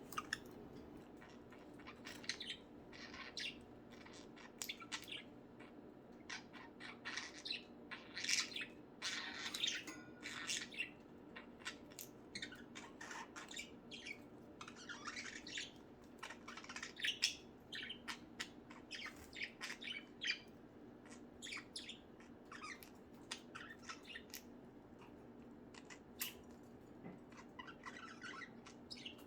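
A flock of budgerigars chattering: many short, scattered chirps and squawks over a faint steady hum.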